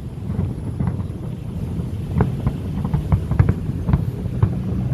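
Distant New Year fireworks going off in a string of irregular sharp bangs and pops over a steady low rumble.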